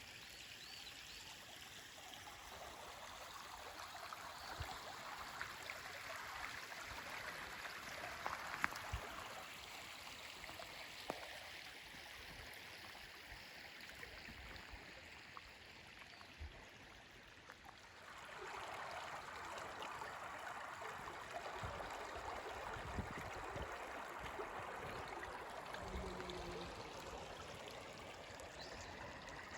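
Shallow river running over stones, a steady rushing that grows louder about two-thirds of the way in, with a few faint knocks.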